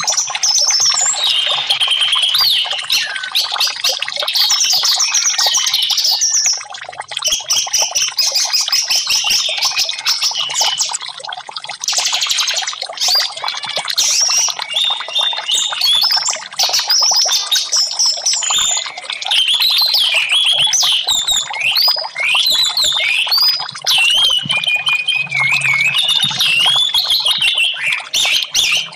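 Orange-headed thrush singing a long, varied song of fast warbled phrases of rising and falling whistles, with only brief pauses, over trickling water.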